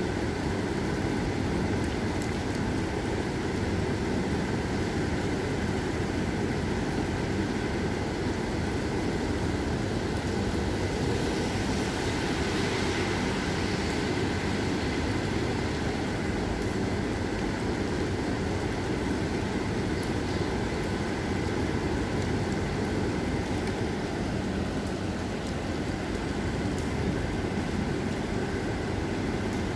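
Heavy rain falling steadily, an even, dense hiss that does not let up, with a faint steady hum underneath.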